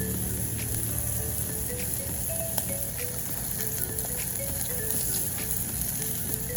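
Chicken sizzling as it cooks in hot oil: a steady hiss broken by scattered crackles and pops.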